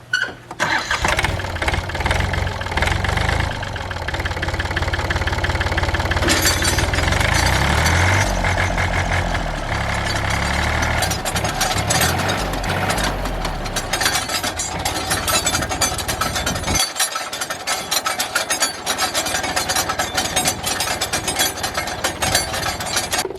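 Rotary tiller's engine started and test-run after its tiller-shaft bearings and seals were replaced. It runs harder from about six seconds in, then its deep low sound drops away suddenly about seventeen seconds in, leaving a rattling clatter that stops at the end.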